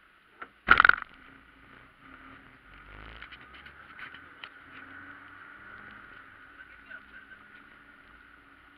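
A loud knock about a second in, then the rally Fiat Punto's engine running steadily, heard from inside the caged cabin, with a few light clicks.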